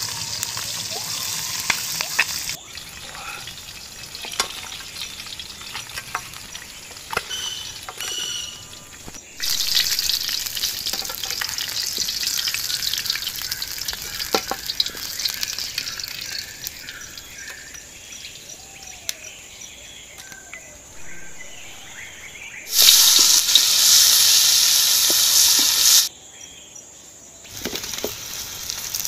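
Singhi fish, then potato pieces and onions, frying in oil in a wok, with a wooden spatula scraping and tapping the pan. The sizzle rises and falls between sections and is loudest in a burst of about three seconds near the end.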